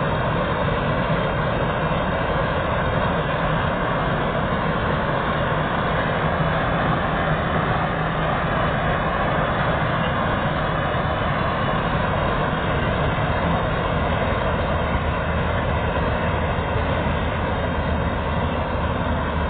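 Chardikala 915 combine harvester running while cutting crop: its engine and machinery make a loud, steady drone that holds even throughout.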